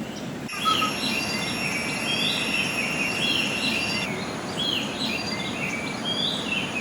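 Tropical forest ambience: insects hold several steady high-pitched tones while a bird repeats short rising calls about once a second, over a steady low rush of flowing river water. It starts abruptly about half a second in.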